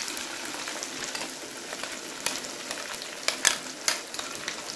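Chicken pieces frying in hot oil in a pan, sizzling steadily as a green masala is poured in over them, with sharp crackling pops scattered through the second half.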